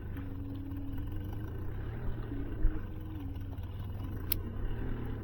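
Boat engine running steadily with a low hum, a faint tone stepping up and down in pitch over it, a low thump near the middle and a sharp click about four seconds in.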